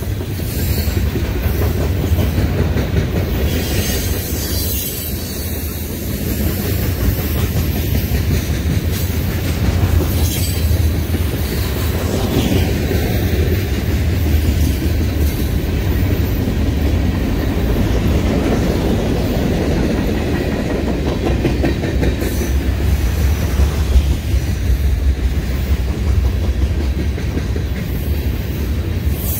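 Freight cars of a mixed freight train rolling past close by: a steady low rumble of wheels on rail, with scattered clacks as the wheels cross rail joints.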